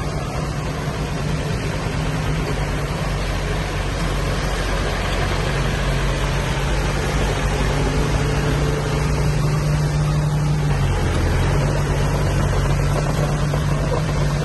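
Diesel engine of heavy earthmoving equipment running steadily; its note dips briefly about eleven seconds in, then returns.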